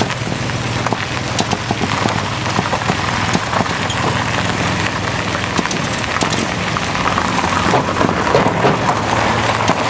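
Mazda six-port 13B rotary engine in an RX-7 rally car running roughly, a steady low drone under constant crackling, popping and banging, a sign of ignition timing that is off.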